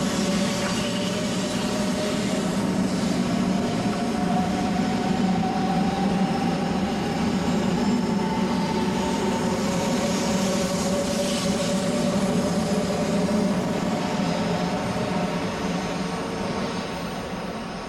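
JR West 500 series Shinkansen pulling out of the station: an electric whine that rises in pitch as it accelerates, over steady running noise from the wheels on the rails. The sound fades as the last car draws away near the end.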